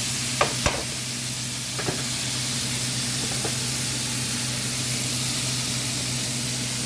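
Chicken breasts searing in very hot oil in a pan: a steady sizzle with a few sharp pops in the first couple of seconds, over a low steady hum.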